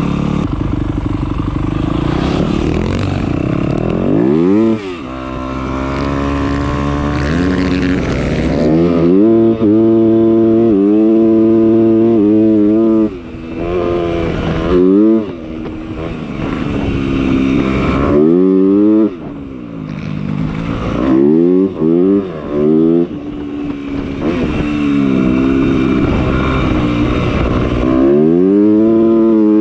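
Motocross bike engine under hard riding, revving up again and again with its pitch climbing through each surge and then dropping back when the throttle closes.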